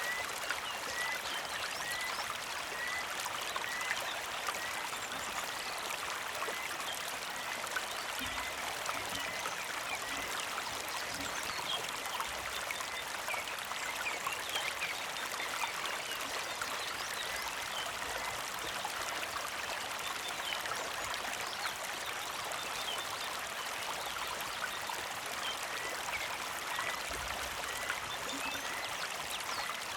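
A small creek trickling and babbling steadily over stones, with a bird repeating a short high chirp about twice a second at the start and again near the end.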